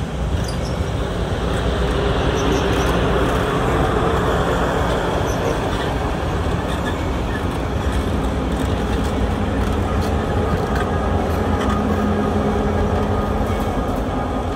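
Passenger cars of a train rolling past on steel rails: a steady rolling rumble of wheels on track with faint clicks. Near the end the trailing diesel locomotive's engine comes by, adding a steady low hum.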